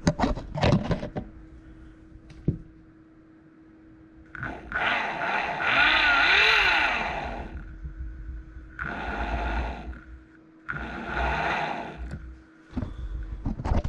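Electric bike motor spun up on the throttle: a whine that rises in pitch and falls away again, then two shorter spin-ups, with a few clicks near the start.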